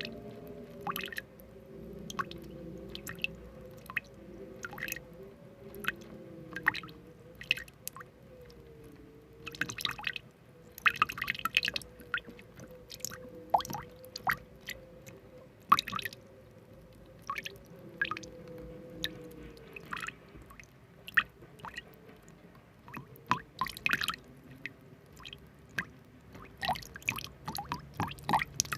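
Irregular wet, squishy clicks and taps, close up, with a faint steady tone underneath that stops about two-thirds of the way through.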